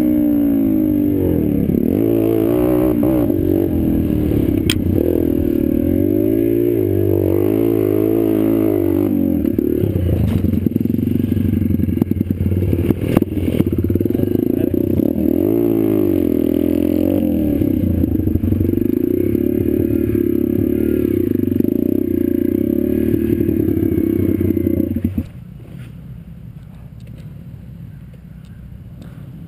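Pit bike engine being ridden hard, its pitch rising and falling again and again as the throttle opens and closes. About 25 seconds in, the engine sound drops abruptly to a much quieter level.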